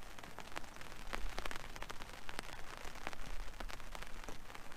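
Rain drops hitting a fishing umbrella canopy overhead, as many irregular sharp ticks over a steady hiss. A low rumble of wind on the microphone swells about a second in and again near three and a half seconds.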